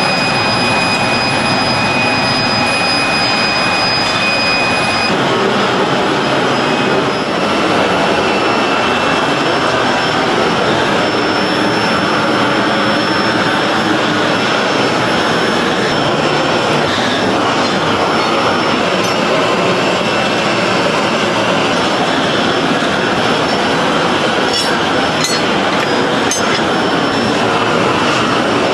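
Steady, loud machinery noise from factory equipment, with a high whine that stops about five seconds in.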